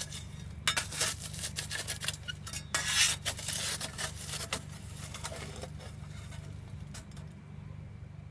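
Camp cookware and utensils clattering and clinking as they are handled and packed up, in a run of quick knocks that thins out after about four and a half seconds, over a steady low rumble.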